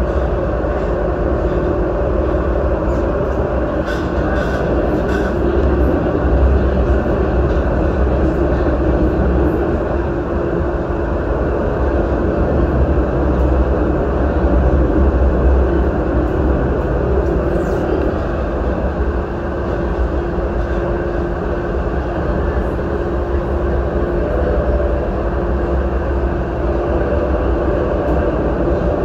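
Urban rail train running steadily on the track: a continuous rumble with a low hum.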